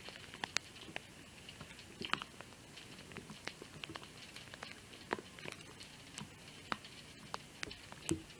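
Light rain: scattered raindrops ticking irregularly close to the microphone, over a faint steady hiss.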